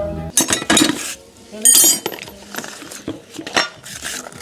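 Metal tools and parts clinking and knocking during engine-bay work, with one bright ringing clink about a second and a half in.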